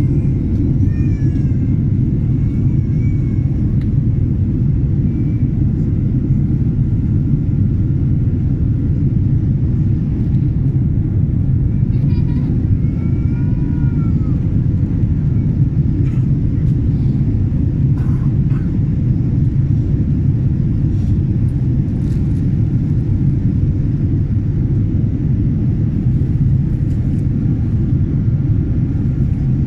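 Steady low rumble of an airliner's cabin noise: jet engines and airflow heard from inside the passenger cabin.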